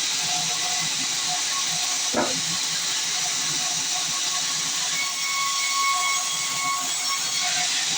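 Band sawmill blade cutting through a log, a steady hiss, with a short dull thump about two seconds in.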